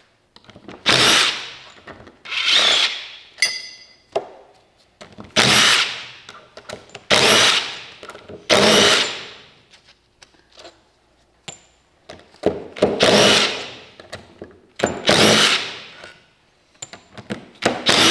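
Power drill spinning out the bolts of an Allison transmission valve body in about eight short bursts, each one starting sharply and fading away. A brief metallic ring sounds about three and a half seconds in.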